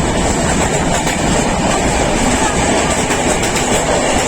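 Steady, loud, low rumbling noise with a few faint clicks about three seconds in.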